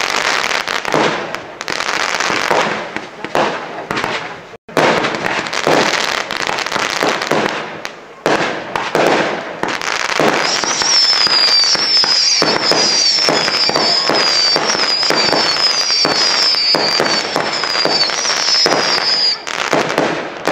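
Fireworks display: a dense run of bangs and crackling from bursting shells and cracker effects. From about ten seconds in, a high warbling whistle from whistling fireworks rises and falls for about nine seconds over the bangs.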